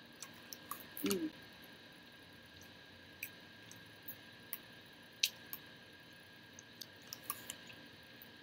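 Eating sounds: scattered small wet mouth clicks and smacks while chewing food, with a short hummed "mm" about a second in.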